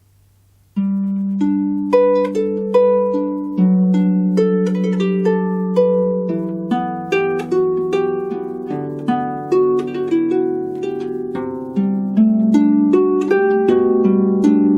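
Solo harp playing, starting suddenly about a second in with a low chord, then plucked notes and chords ringing on over one another.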